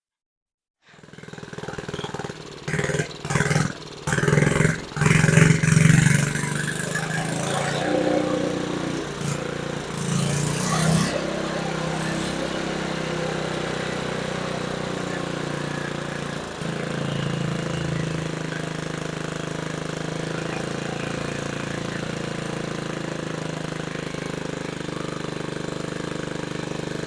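Small single-cylinder engine of an old reel mower running with no muffler. It surges unevenly in loud bursts for the first several seconds, then settles into a steady fast run. The carburetor is still out of adjustment, so the engine will not idle down.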